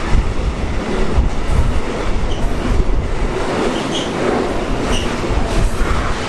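A train running past close by: a continuous rumble of steel wheels on the rails, with a few brief high wheel squeals partway through.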